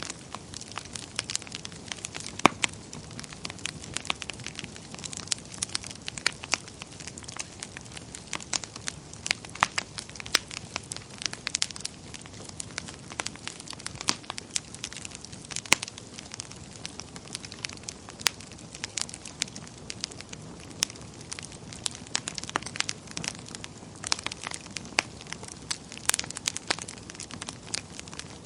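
Wood fire crackling in a fireplace: a steady low rush of flame with frequent sharp, irregular pops and snaps, one louder pop about two and a half seconds in.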